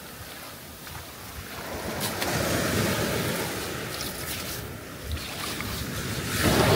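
Surf washing up a sandy beach, the noise of the waves swelling about two seconds in and again near the end, with wind buffeting the microphone.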